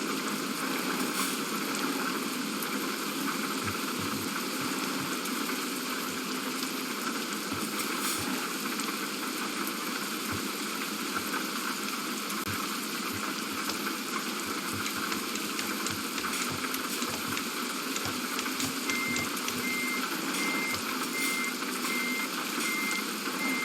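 Steady running noise, with an electronic warning beeper that starts about 19 s in and sounds a single high beep about twice a second, like a reversing alarm.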